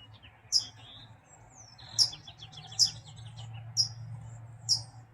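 A dark-coloured bird repeating a short, high 'beep' call, five times about once a second, with fainter quick ticking notes in between.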